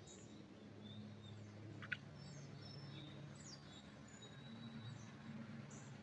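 Faint wild birdsong: scattered short, high chirps and a few thin whistled notes, with one sharp click about two seconds in, over a steady low hum.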